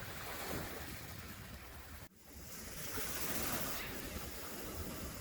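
Steady rushing outdoor noise with a low rumble, broken by a brief gap about two seconds in.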